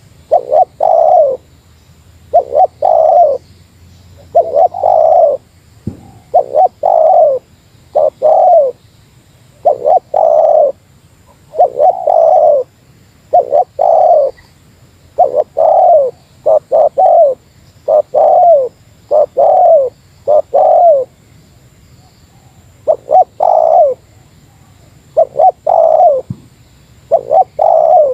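Spotted dove (tekukur) cooing over and over in short phrases of two or three notes, a phrase about every two seconds, with one longer pause about three-quarters of the way through. This is the 'meratus' style of call given to a rival dove, used as a lure call.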